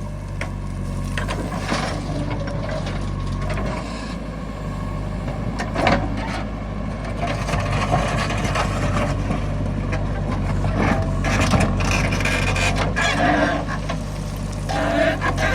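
A heavy machine's diesel engine running steadily, with scattered knocks and clatter over it.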